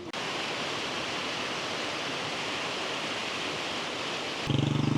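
Steady rushing of fast-flowing river water, an even hiss. Near the end, a louder low, buzzing hum cuts in abruptly.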